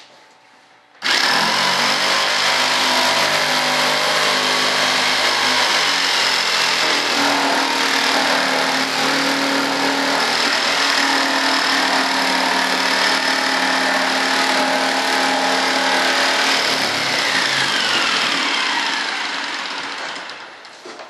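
Jigsaw with a laminate blade cutting a thin wood sheet: it starts suddenly about a second in, runs steadily, then winds down with a falling whine near the end.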